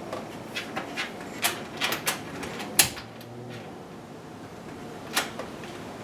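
Scattered clicks and knocks of small hardware being handled while a spring washer and bolt are fitted by hand up under a vehicle's fender. Several light knocks come in the first half, the loudest a sharp knock near the middle, and one more comes about five seconds in.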